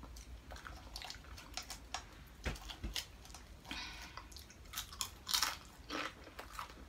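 Close-up mouth sounds of someone chewing a crispy fried crab rangoon, with scattered crisp crackles and a few louder crunchy crackles in the second half.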